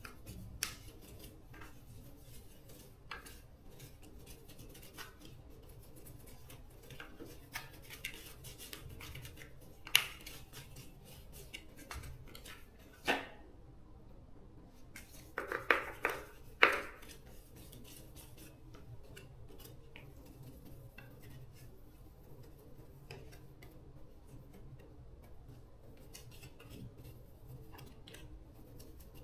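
Sporadic light clicks, clinks and scrapes of small hard objects being handled, with a short cluster of sharper clinks about halfway through.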